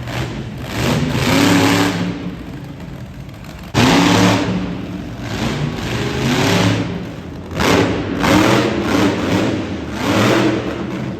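Monster truck engine revving hard in repeated bursts, its pitch climbing and dropping again several times, with a sudden loud surge about four seconds in.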